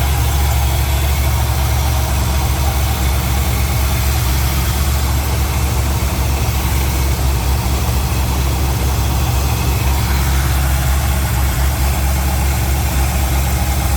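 LS V8 in a Porsche 951, idling steadily while it warms up after a cold start.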